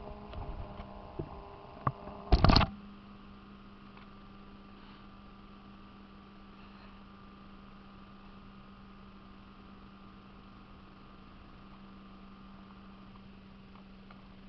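A few faint clicks and a short loud crackle about two and a half seconds in, then a steady electrical hum.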